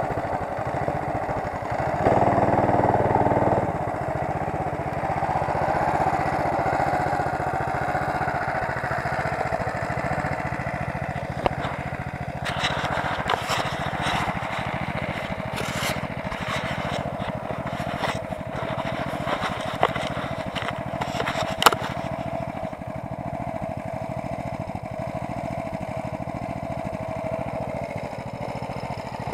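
Homemade motorcycle's engine running as it is ridden, briefly louder about two seconds in, with a run of sharp clicks and knocks in the middle.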